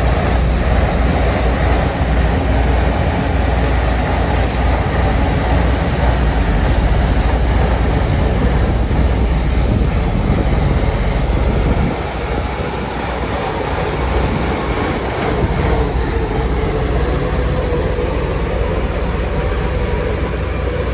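Heavy diesel earthmoving machinery running steadily under load, a loud continuous rumble with some mechanical clatter, easing slightly about halfway through.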